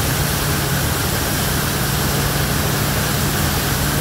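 Steady hiss of rain, with a low, even machine hum underneath.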